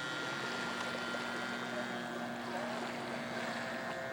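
Small engine of a radio-controlled scale seaplane running at a steady speed, a constant droning buzz.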